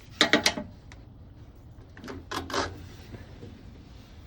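Two short bursts of rapid clicking and creaking from an impeller puller working a stuck rubber impeller out of a Scania 6SY engine's seawater pump: one near the start, a second about two seconds in.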